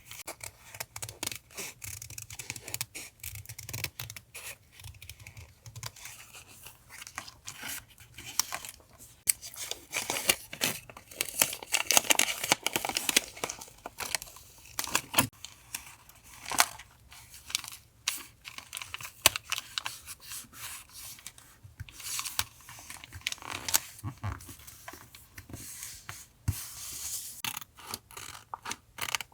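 Paper being handled and torn for a journal collage: irregular rustling and tearing of paper with many small taps and clicks, busiest in the middle and again near the end.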